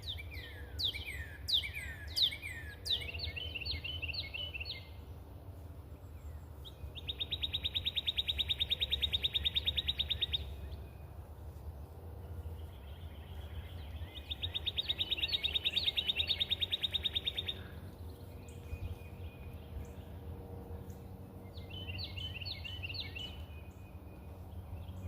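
Wild songbirds singing: a run of slurred, downward-sweeping whistles, then two long, rapid trills of several seconds each, and a few short repeated notes near the end.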